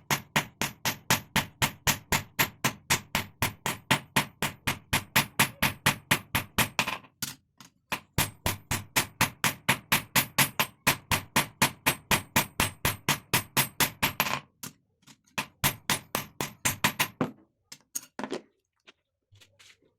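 Hand hammer striking file steel, forging a chisel, in a quick even rhythm of about three blows a second, each with a short metallic ring. There is a brief break about seven seconds in. After about fourteen seconds the blows turn lighter and sparser, then stop.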